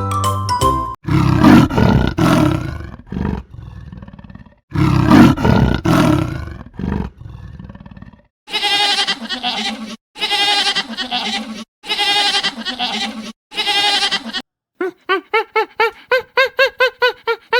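A series of animal calls: two loud, rough roaring calls, then four drawn-out calls with a wavering pitch, then, about fifteen seconds in, a quick run of short, clipped calls, about four a second.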